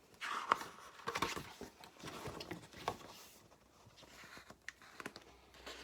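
Paper rustling and soft knocks as a picture book is handled and its pages turned: several rustles in the first few seconds, then quieter with a few light clicks.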